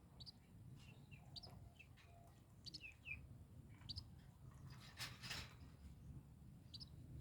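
Faint, high, short chirps from baby birds, repeated every half second to second, with a brief rustle about five seconds in.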